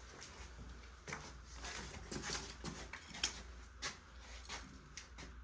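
Faint scattered scrapes, rustles and taps of carpet being handled and fitted, with one sharper tap about three seconds in.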